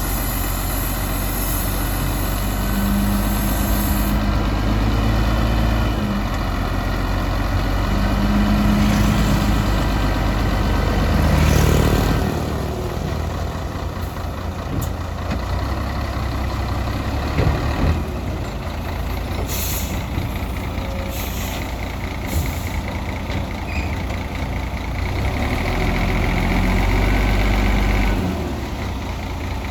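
Heavy crawler bulldozer's diesel engine running, its note and loudness shifting several times as the load changes, with a few sharp clanks in the second half.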